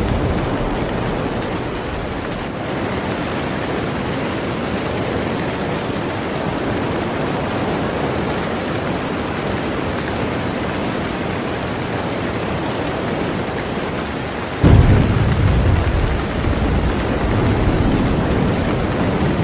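Heavy rain falling steadily on a boat. A sudden deep thunderclap breaks in about fifteen seconds in and rumbles on to the end.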